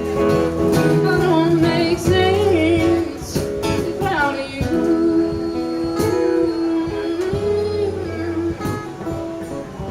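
Live acoustic song: strummed acoustic guitar and cajon beats under a singer holding long notes with vibrato.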